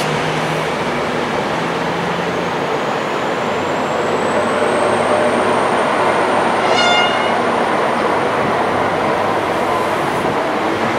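V/Line VLocity diesel multiple unit pulling away, a steady rumble of engines and wheels with a thin high whine that rises and then holds. A short horn toot sounds about seven seconds in.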